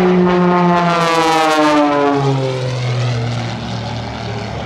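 Aerobatic propeller airplane flying past, its engine and propeller drone dropping in pitch as it goes by about two seconds in.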